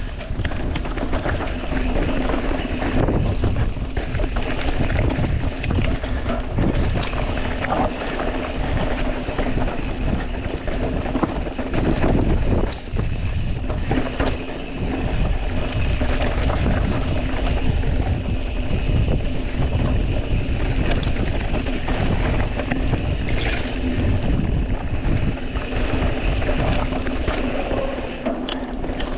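Mountain bike riding a rough dirt trail: a steady rolling rumble of tyres on dirt and rock with many small knocks and rattles from the bike, and wind buffeting the microphone.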